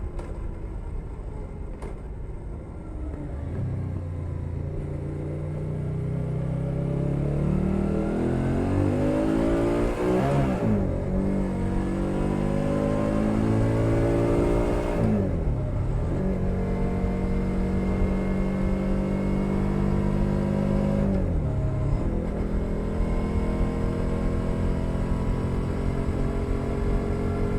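Suzuki SV650's V-twin engine through a LeoVince Nero aftermarket exhaust, pulling up through the revs with rising pitch, then running at steady revs. The pitch dips briefly at gear changes about a third of the way in, about halfway and about three quarters of the way through.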